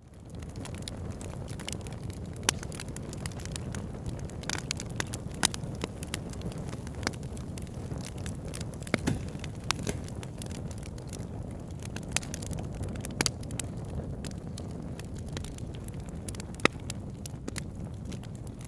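Wood fire burning with a steady low rush and frequent sharp crackles and pops, a handful of them much louder than the rest.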